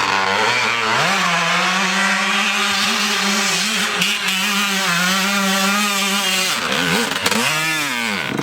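Dirt bike engine under throttle. The revs climb about a second in and hold steady for several seconds, then drop and pick up again in a couple of swoops near the end.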